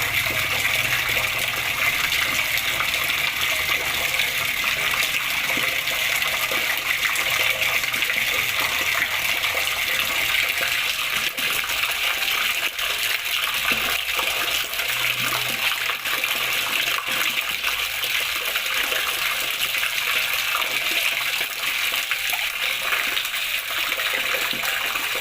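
Flowing water splashing steadily, a continuous even rush without pauses.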